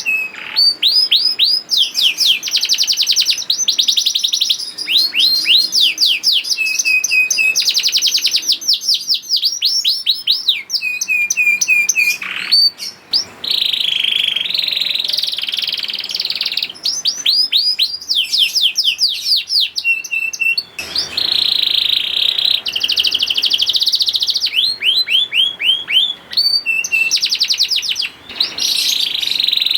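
Domestic canary singing a long, continuous song of fast trills: runs of rapidly repeated down-slurred notes alternating with sustained buzzy rolls, with brief breaks about halfway and near the end.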